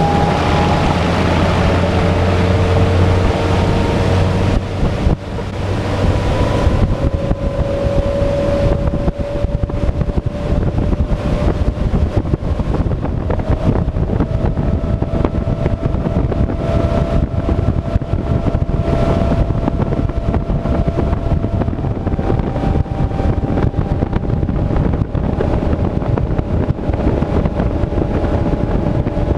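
Suzuki DF150 four-stroke outboard running at wide-open throttle, its whine climbing in pitch over the first several seconds as the boat gets up to speed, then holding steady. Wind buffets the microphone over a steady rush of water and air.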